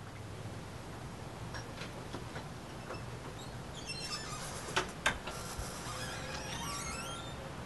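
Outdoor ambience with a low steady hum, small birds chirping in quick high notes from about halfway, and two sharp clicks about five seconds in.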